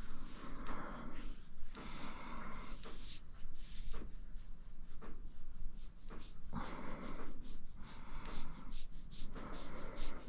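Steady high-pitched insect chorus, like crickets, with repeated short rustling sounds close by every second or two.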